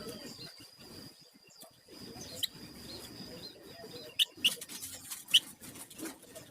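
Flamboyan songbird holding one long, thin, steady high whistle for about four seconds (the 'nyiul' whistle), then giving several sharp short chirps, over a low scratchy rustle.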